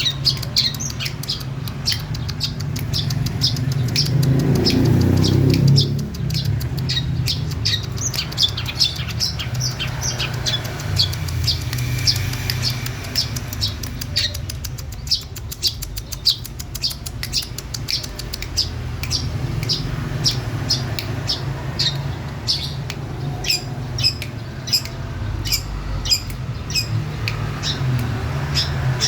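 Female long-tailed shrike calling vigorously: a fast, even string of short, sharp, harsh notes, about four a second, kept up without pause. A low rumble swells and falls about four to six seconds in.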